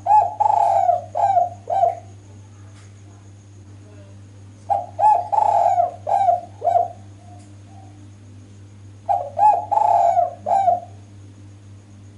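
Female spotted dove (derkuku) cooing: three phrases of several coos each, about four and a half seconds apart.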